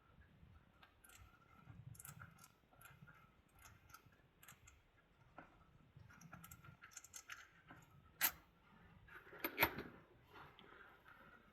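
Faint, irregular metallic clicks and clinks of hand tools and bolts as the transmission valve body's mounting bolts are worked loose, with a sharp click about eight seconds in and a louder clatter a second or so later.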